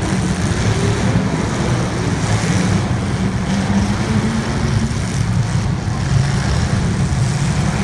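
Race car engines running steadily together as cars circle the track in a feature race.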